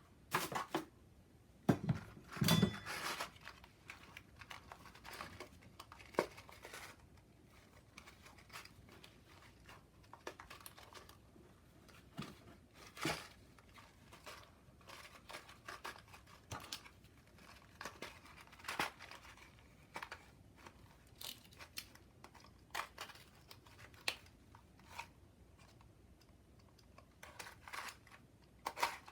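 Intermittent close handling noise: short crinkling and tearing rustles mixed with small sharp clicks, the loudest cluster about two to three seconds in.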